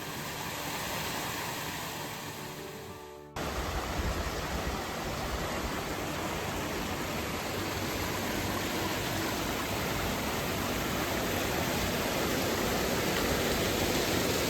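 Background music that cuts off abruptly about three seconds in, then the steady rushing of a waterfall.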